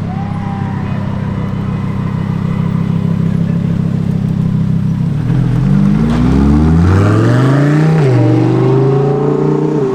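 Car engine running at a steady low idle, then from about five seconds in revving up with a rising pitch, dipping briefly near eight seconds and climbing again.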